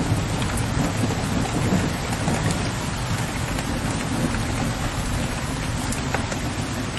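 Steady rain pattering on a window ledge, with individual drops ticking, over a low, distant rolling rumble of thunder that eases off after the first couple of seconds.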